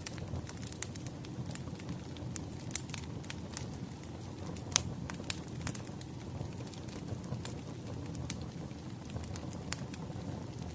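Wood fire crackling, a steady low rumble with scattered sharp pops, one louder pop a little before the middle.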